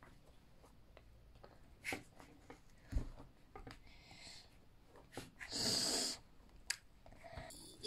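Clicks and knocks of toy construction parts being handled and fitted together, with a short hiss-like rustle about two-thirds of the way through.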